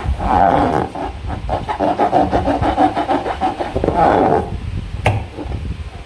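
Slime being worked by hand, a dense run of small sticky clicks and squelches. A sharper click comes about five seconds in.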